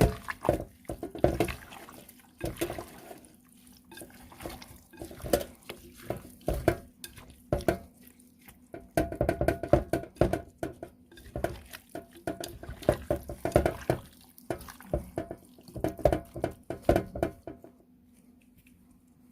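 Hands mixing raw chicken pieces with wet blended seasoning, ginger, garlic and onion in a bowl: irregular wet squelches and slaps that stop near the end.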